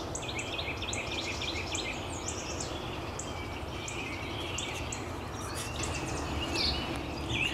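Several small birds chirping in quick, repeated short notes over a steady low outdoor background rumble.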